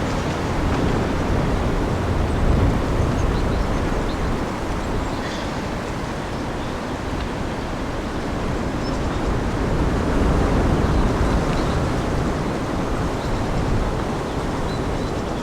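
Storm wind blowing in strong gusts, a loud rushing that swells and eases every few seconds, with a few faint high bird chirps.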